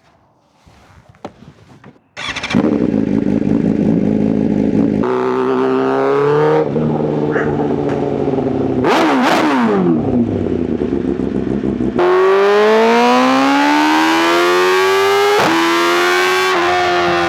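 Superbike inline-four engines at high revs, heard in several abruptly cut clips after a quiet couple of seconds with a few clicks. The clips hold a steady high-rev note, a steep falling sweep about halfway through as a bike goes past, and then an engine note climbing under acceleration.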